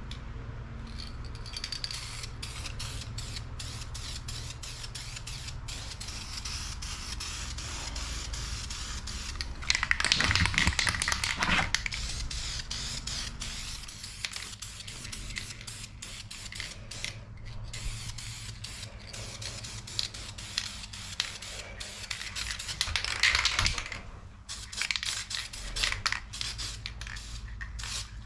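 Fine 1500-grit sandpaper rubbed by hand over a metal jet ski exhaust in quick back-and-forth strokes, working down surface corrosion and discoloration. It hisses steadily, with two louder spells of harder rubbing.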